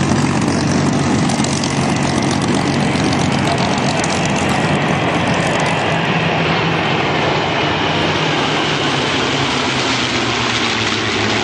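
Rolls-Royce Merlin V12 engines of Spitfire and Hurricane fighters running as the aircraft fly past, a steady drone whose pitch sinks slightly in the second half.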